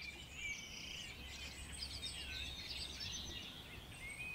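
Several songbirds chirping and singing in a busy, overlapping chorus over a steady low rumble of outdoor ambience.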